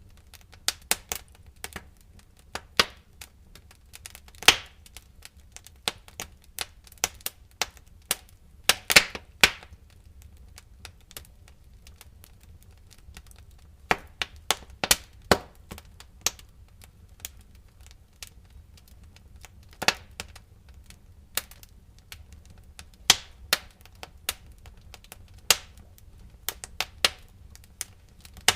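Wood fire crackling in a fireplace: irregular sharp pops and snaps over a low steady rumble, with the loudest pops about four and a half seconds and nine seconds in.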